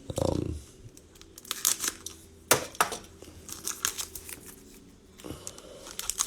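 Foil trading-card pack wrapper crinkling and tearing open, in scattered sharp crackles.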